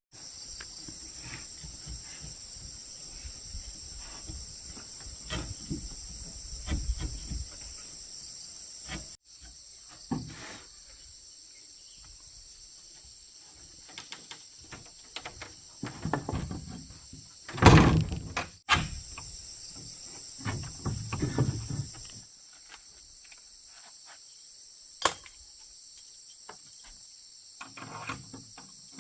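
Steady high-pitched insect chorus of crickets, with irregular knocks and handling noises over it, the loudest a cluster of knocks about two-thirds of the way through.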